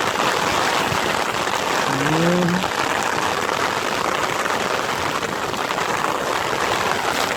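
Steady rain falling, an even hiss with no breaks. About two seconds in there is a short rising vocal sound.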